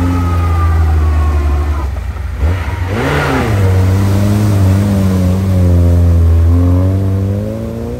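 Lada Niva engine revving under load as the car ploughs through deep mud, its pitch rising and falling with the throttle. About three seconds in, a brief rush of churned mud and water comes off the spinning wheels.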